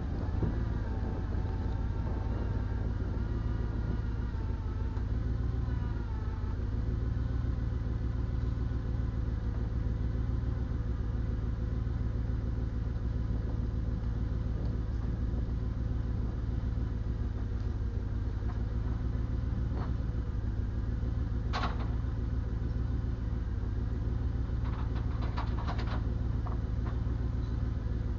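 Diesel engine running steadily, with a wavering whine for the first few seconds that fits a hydraulic lift working. A few sharp metallic clanks come about two-thirds of the way in and again near the end.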